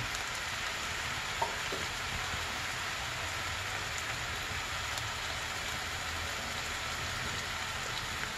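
Lamb tripe, onion and green peppers sizzling steadily in hot oil in an uncovered pan while they sauté, with one light click about a second and a half in.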